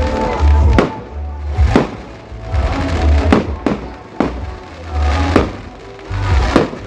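Fireworks going off in sharp bangs, about seven of them irregularly spaced, over loud music with a heavy pulsing bass.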